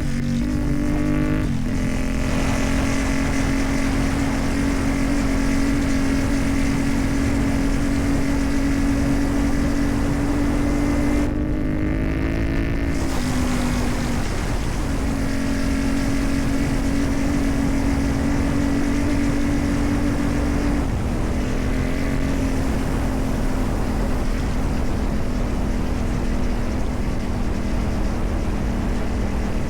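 CFMoto 450MT's parallel-twin engine running through a modified exhaust at a steady cruising pace, with the engine note shifting a few times: near the start, briefly around the middle, and again about two-thirds through.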